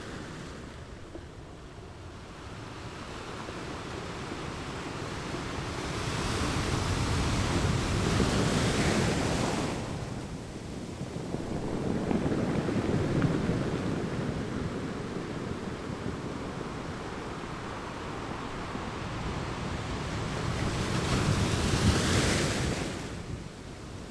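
Ocean waves breaking and washing up a shore, with the rush of surf swelling and ebbing. Two big surges peak about a third of the way in and near the end, with a smaller one between them.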